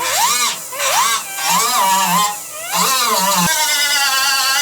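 Handheld grinder cleaning paint and rust off sheet metal of a truck hood to prepare it for welding. Its high whine swoops up and down several times as the tool is pressed on and eased off the metal, then holds steady near the end.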